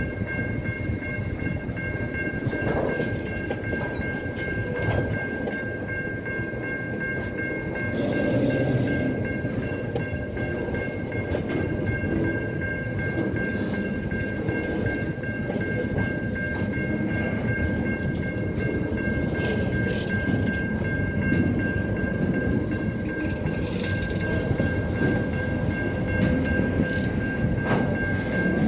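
A train running on the rails, a steady rumbling noise with a constant high-pitched whine over it.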